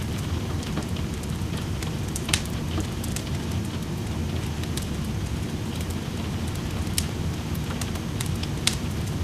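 Steady rain with a wood fire crackling in a fireplace: sharp pops and snaps scattered over the rain's even patter, the loudest a little after 2 seconds in, around 7 seconds and near the end.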